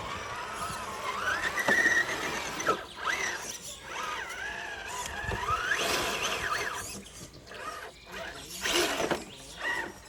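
Electric motor and gear drive of a 1/10-scale RC rock crawler whining, the pitch rising and falling with the throttle, with a brief louder burst near the end.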